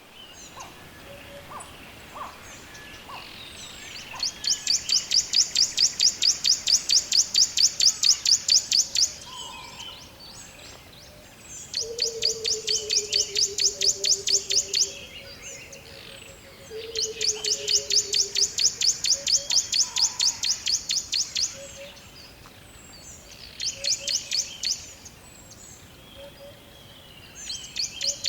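Forest animal calls: a loud, rapid high-pitched trill comes in bursts of a few seconds each, five times. Twice in between, a low whistle falls slowly in pitch.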